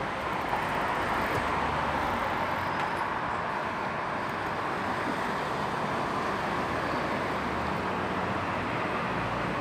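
Steady road traffic noise, an even wash of passing cars with no single vehicle standing out.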